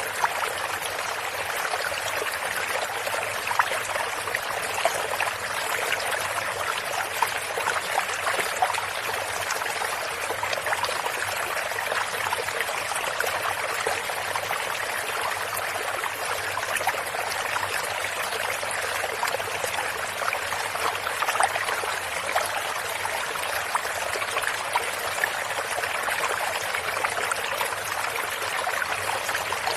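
Stream water running and trickling steadily over stones, with many small splashes.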